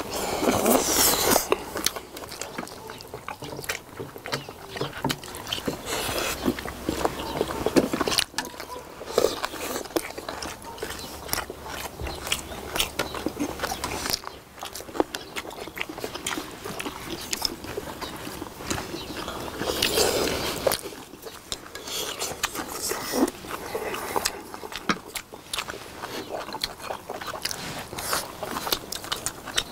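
Close-miked eating: several people chewing and smacking their lips on tender braised beef short ribs and rice, with many short clicks from chopsticks against plates and bowls.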